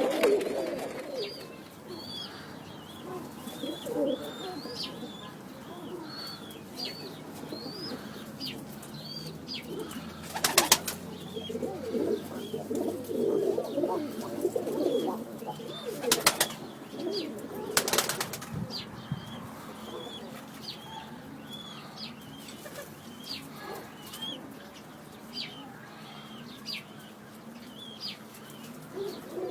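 Domestic pigeons cooing, with three short bursts of wing flapping in the middle. Over them runs a steady series of short, high chirps, about two a second.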